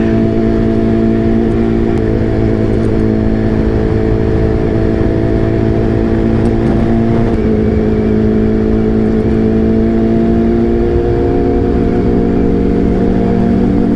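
BMW superbike engine running steadily at cruising speed. Its pitch drops slightly about halfway through and again a few seconds later, then edges up near the end.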